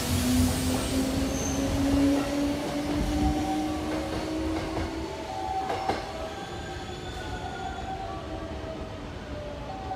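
Sanyo Electric Railway 3000 series electric train pulling out and accelerating away over the rails, with a whine that rises slowly in pitch over the first half as it gathers speed. The sound then fades as the train recedes, with a single sharp click about six seconds in.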